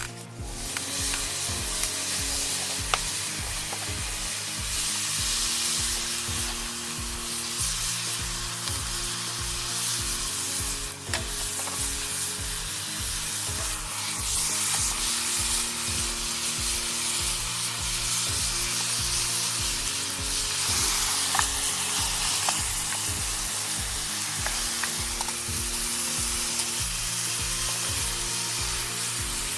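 Onions and garlic sizzling as they fry in olive oil in a pan over a campfire, a dense steady hiss with occasional pops and stirring clicks.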